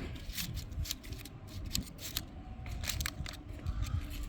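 Irregular light clicks and taps, several a second, from food and kitchen items being handled, over a low rumble.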